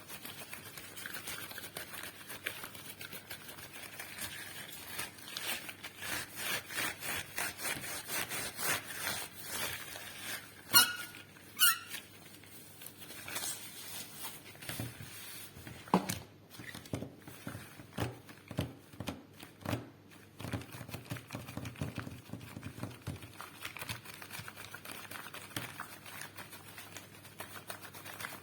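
Rubber-gloved fingers tapping, rubbing and scratching on a microphone, with many quick taps, two short squeaks of rubber about eleven seconds in, and a sharper tap a few seconds later.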